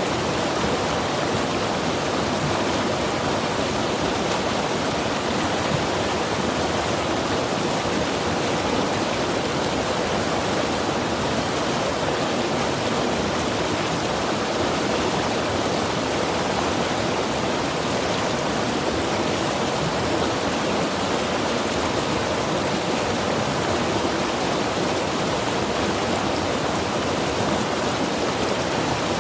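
Mountain river rushing steadily over rocks, a constant even rush of water with no pauses or distinct splashes.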